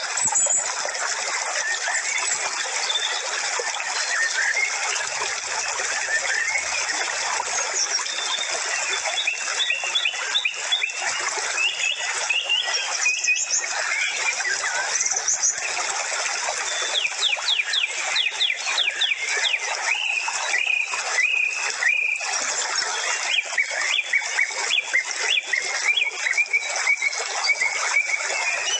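Many small birds chirping and twittering without pause, with a quick run of falling notes about halfway through.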